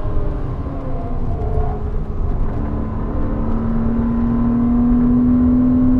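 Porsche Cayman 987's mid-mounted flat-six heard from inside the cabin on track. The revs fall in the first second or two, then from about three seconds in the engine pulls steadily, its pitch rising as the car accelerates.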